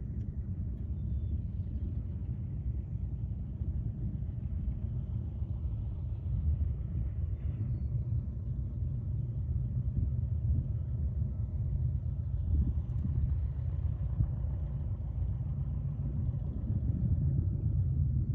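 Low, steady rumble of an aircraft engine heard from a distance, with no sharp events.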